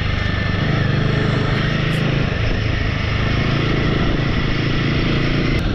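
Royal Enfield motorcycle engine running steadily, a constant low drone under noise.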